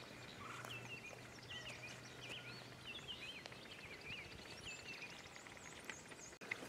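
Faint songbirds singing: many short chirps and whistled notes, one after another. A faint low hum underneath fades out about three seconds in.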